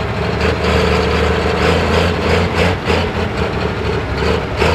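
Pro Stock pulling tractor's diesel engine running at low revs: a steady drone with irregular pulses.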